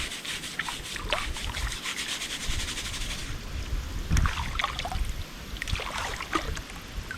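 River water splashing and trickling around people wading, with scattered small splashes and wind buffeting the microphone in low gusts.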